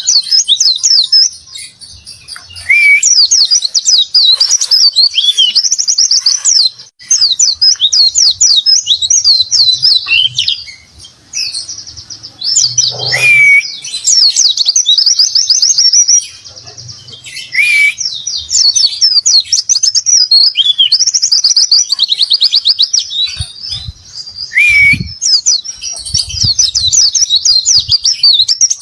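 White-eye (pleci) singing a long, fast, high-pitched warbling song of rapid trills, broken by a few lower down-slurred whistles. The song is loaded with mimicked phrases of other birds.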